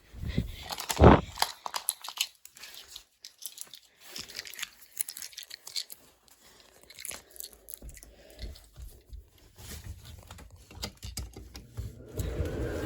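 Crinkling, rustling and scattered clicks of an old nylon inflatable decoration's fabric being handled and spread out, with a sharp knock about a second in. About twelve seconds in, the inflatable's blower fan switches on and runs with a steady hum.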